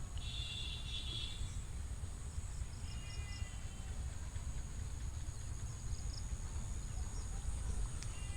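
Broiler chicks peeping in two short bouts of high chirps, the first about a second long, over a steady high-pitched hiss and a low rumble.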